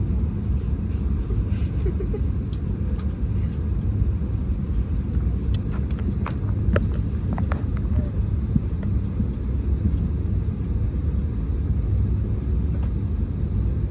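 Steady low rumble inside the cabin of an Airbus A321neo during pushback, as its engines are being started, with a few faint clicks about six to seven and a half seconds in.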